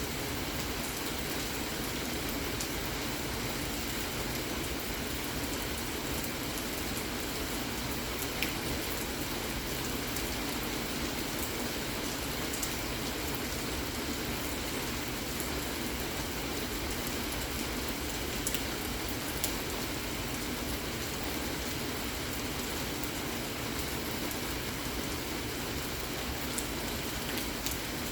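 Steady rain falling, an even hiss with an occasional faint tick.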